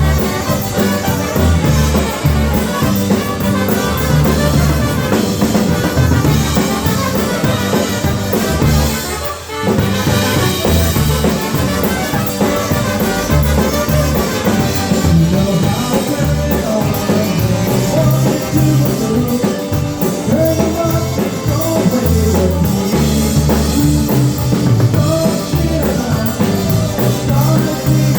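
Live polka band playing a polka over a drum kit, with a bouncing bass line, breaking off for a moment about nine seconds in before playing on.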